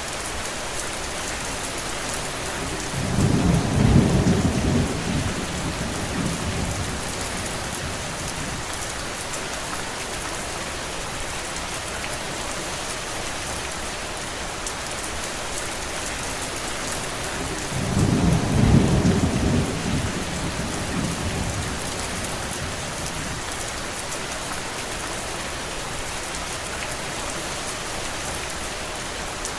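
Steady rain falling, with two low rumbles of thunder that each swell and fade over a few seconds, one about three seconds in and another some fifteen seconds later.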